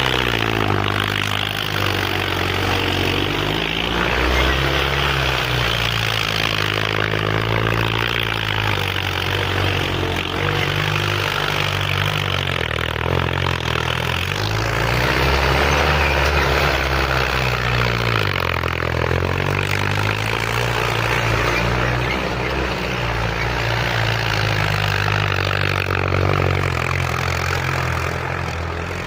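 Tractor engine running hard, its revs rising and falling in slow waves every few seconds.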